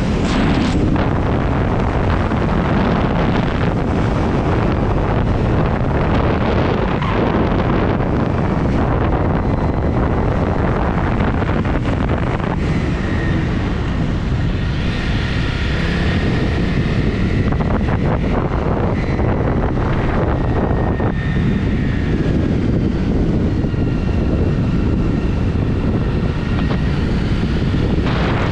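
Wind buffeting the microphone while riding a Honda CRF 250 motorcycle, its single-cylinder engine running underneath. From about halfway in, faint tones rise and fall as the engine speed changes.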